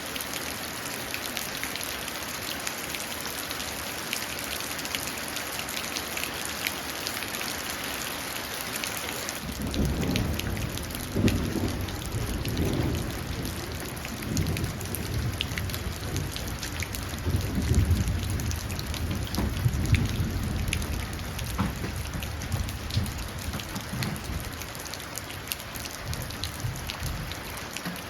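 Steady rain falling and dripping into a puddle. About a third of the way in, a long low roll of thunder begins and rumbles on in several swells through the rest.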